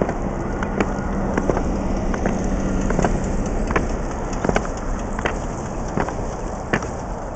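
Ski-touring gear on a thinly snow-covered plowed walkway: irregular sharp clicks, about one or two a second, from ski poles and skis, over a steady rushing noise, with a low steady hum in the first half.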